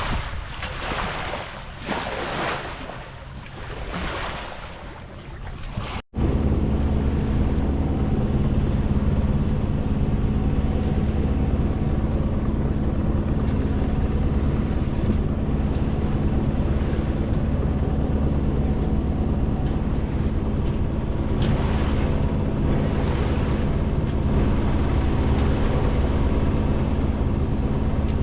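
Wind and water rushing past a sailboat, surging and easing, with wind buffeting the microphone. About six seconds in it cuts abruptly to the boat's motor running at a steady, even drone.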